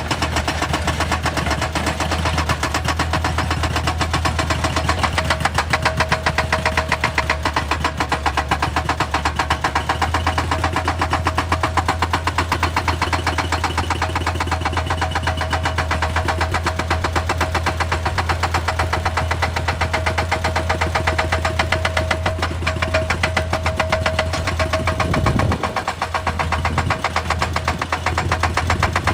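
Excavator working, its machinery running loud and steady with a fast, even pulsing, briefly easing off about 25 seconds in.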